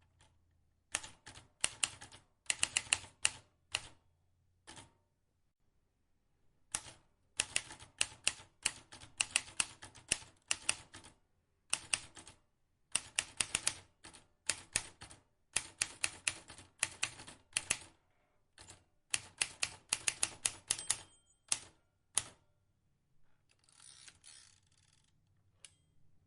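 Vintage manual typewriter being typed on: runs of sharp keystroke clacks in word-length bursts with short pauses between them, and a fainter drawn-out rasp near the end.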